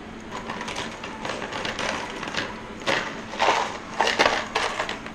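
Handling noise at the workbench: a series of rustling, crunching shuffles as parts are moved about, loudest about three to four and a half seconds in.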